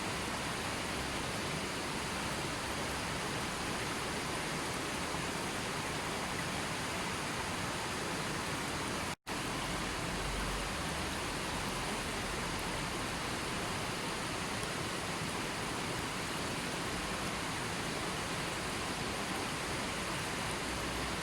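Steady, even rushing of water, a continuous nature-sound track. It cuts out completely for a split second about nine seconds in.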